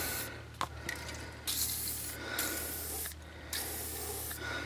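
Aerosol can of lubricant hissing in several short sprays, squirted in to free a wheel seized onto its hub.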